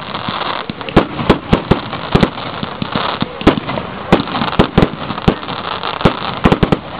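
Fireworks going off: an irregular string of sharp bangs, sometimes several within a second, over a steady crackling haze.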